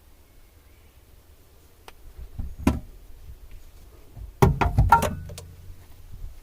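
Knocks and metallic clinks of hands-on work around a car's 12-volt auxiliary battery: a single knock, then about a second and a half later a quick run of clunks and short ringing metal clinks.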